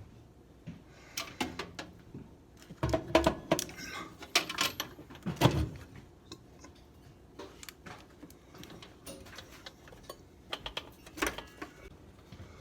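Irregular metal clicks, clinks and knocks of hand tools and bolts being worked on a gas furnace's valve, with a flurry of louder knocks about three to six seconds in and a few more near the end.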